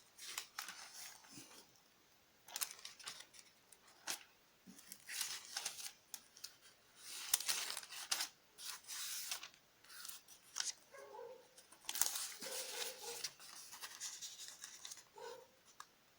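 Thin Bible pages being leafed through: a run of irregular rustles and flicks as pages are turned one after another.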